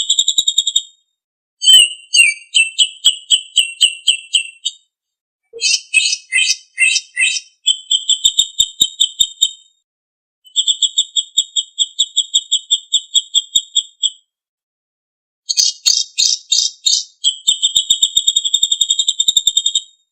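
Songbird singing from a masteran recording, with phrases of rapid, high-pitched trilled notes each lasting a few seconds and short silent gaps between them. Some phrases are a fast even trill and others are choppier, with notes stepping down in pitch.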